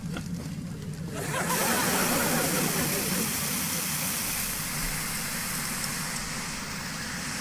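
Fire hose spraying water, a steady hiss that starts about a second in, over the low hum of a fire engine's running engine.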